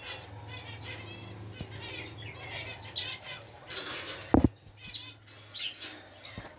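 Many small cage birds chirping and chattering in an aviary, with quick repeated chirps. A loud thump comes about four seconds in, over a steady low hum.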